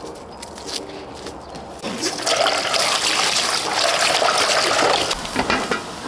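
Water rushing or pouring for about three seconds, starting about two seconds in, after a quieter stretch of light clicks.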